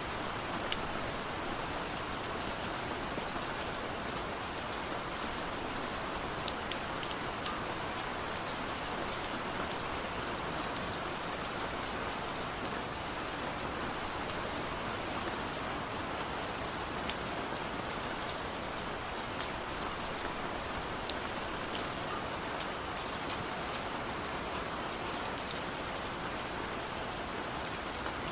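Steady rain falling in an even hiss, with scattered sharp ticks of individual drops striking close by.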